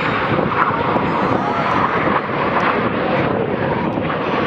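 BAE Hawk T1 jets flying a display: steady noise of their Adour turbofan engines.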